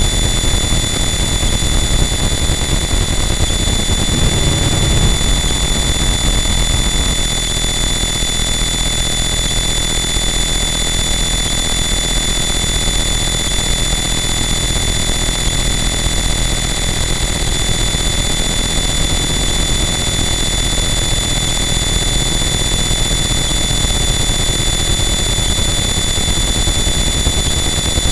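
Harsh noise wall: a loud, unbroken wall of dense distorted noise with steady high whistling tones above it and a churning low rumble underneath that shifts a few seconds in.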